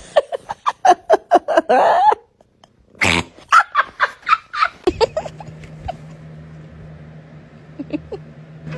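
A cat making a quick series of short, pitched calls, about four a second, in two runs with a pause between them. A steady low hum starts about five seconds in, with a few faint calls over it.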